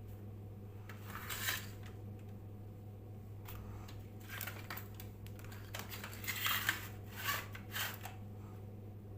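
A steady low electrical hum, with several short bursts of scraping and clicking from small objects being handled, the loudest a little past the middle.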